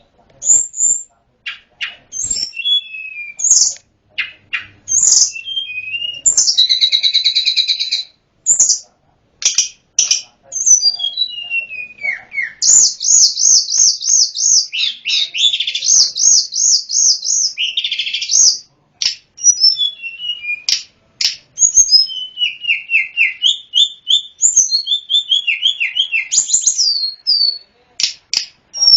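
A tledekan gunung (sulingan gunung) songbird singing a long, varied song of high chirps, whistled notes and rapid trills, with short pauses between phrases and a long fast trill in the middle.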